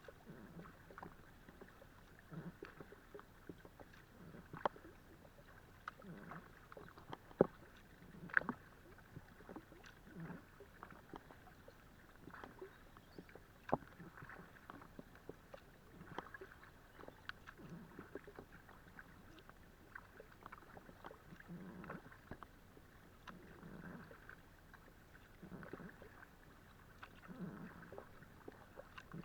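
Kayak paddle strokes, the paddle blades dipping and pulling through the water about once every two seconds. Water splashes and ripples against the hull of an Itiwit X500 inflatable kayak, with scattered sharp drips, clicks and light knocks.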